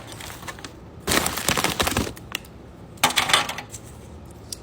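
Plastic takeout packaging crackling and crinkling as it is handled, in two bursts: a longer one about a second in and a shorter one about three seconds in, with a few faint clicks between.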